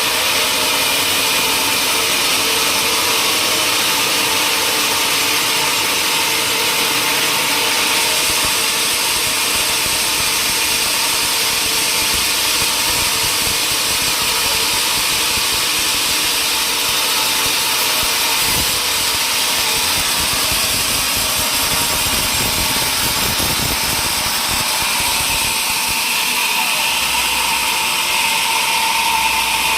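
Sawmill machinery running steadily: a loud, even mechanical noise with a steady hum and whine.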